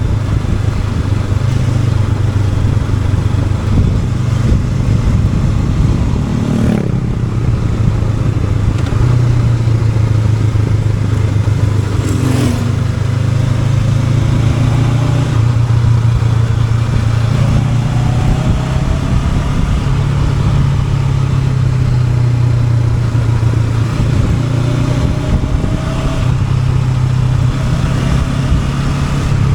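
Honda NX500's parallel-twin engine running steadily while riding, under a constant rush of wind and road noise. Two brief sweeping sounds come through about 7 and 12 seconds in.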